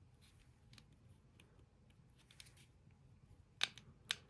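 Small push-button switches on a Maytag dishwasher's control board clicking as they are pressed: a few faint clicks, then two sharper clicks about half a second apart near the end. The click is the sign that the switch behind the touchpad is actually being actuated.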